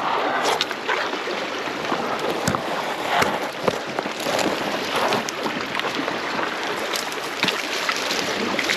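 River water rushing and splashing close to the microphone, with many short sharp splashes and knocks throughout.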